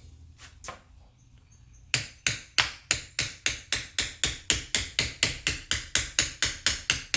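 Hammer striking steel on a car's front steering parts: a couple of light taps, then from about two seconds in a steady run of about three sharp, ringing blows a second, driving a bolt through into place.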